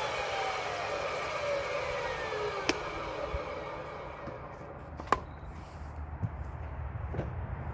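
A high-speed firewood cutting saw's blade spinning down after a cut, a whine falling in pitch over the first three seconds. Two sharp knocks follow, and a low hum continues.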